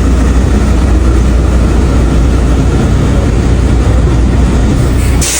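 Steady, loud low engine rumble with a constant noisy wash over it, changing abruptly to a brighter hiss near the end.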